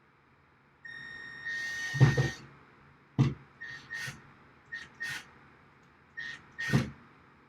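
Cordless drill run in short trigger bursts: a high motor whine for about a second and a half, then a louder grinding burst as the bit works into the wood about two seconds in. Several short blips of the drill follow, with another loud one near the end, as a screw hole in the wood is widened.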